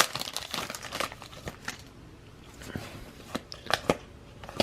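Crinkling of a foil trading-card pack wrapper as a pack is handled and opened, with a few sharp clicks and taps from the cards in the second half.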